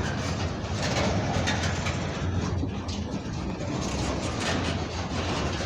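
CN freight train rolling slowly past at low speed: a steady low rumble with scattered clicks from the wheels and cars.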